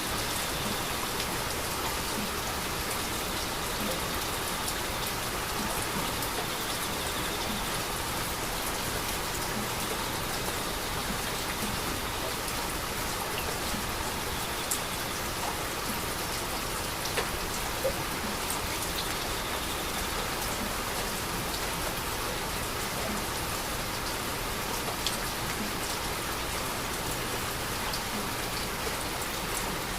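Steady heavy rainfall pattering on surfaces, an even hiss with scattered individual drop ticks.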